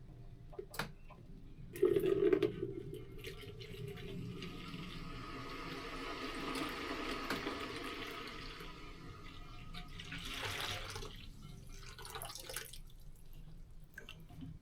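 Liquid running and splashing for several seconds, with a louder ringing knock about two seconds in and a brief surge of rushing near the end.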